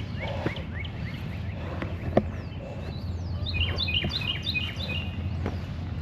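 Songbirds chirping with many short, rising calls, and a quick run of about seven repeated high notes in the second half. A single sharp knock comes a little after two seconds, over a steady low rumble.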